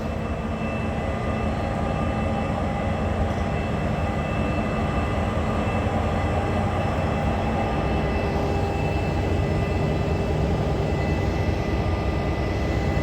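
Steady hum of a stationary passenger train at the platform: a low rumble with several constant whining tones above it.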